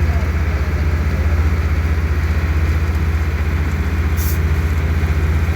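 Passenger ferry boat's engine running with a steady, heavy low drone and a fast, even pulse. There is a brief hiss about four seconds in.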